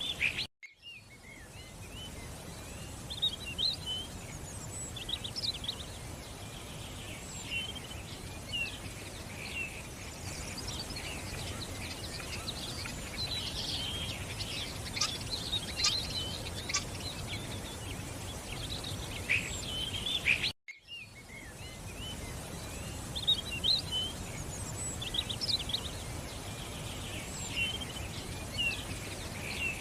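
Several birds chirping and singing in short calls over a steady outdoor background hiss. The sound cuts out briefly twice, about half a second in and about twenty seconds in, and resumes each time.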